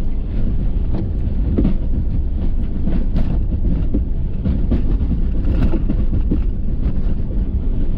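Ford F-350 pickup with a snow plow driving: a steady low engine and road rumble, with scattered knocks and rattles through it.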